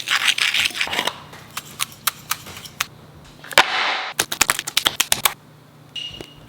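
Kitchen utensils clicking, knocking and scraping against a bowl while dry spices are mixed into a Cajun seasoning. The clicks come in quick irregular runs, with two short scraping rushes.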